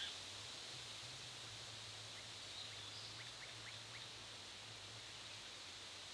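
Faint bird calls: a short run of about five quick, high notes a couple of seconds in, over a steady background hiss and low hum.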